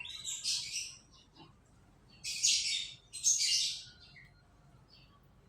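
Canary chirping and singing in three loud bursts of high, rapid notes: one at the start and two close together about two seconds in, with fainter chirps in between and after.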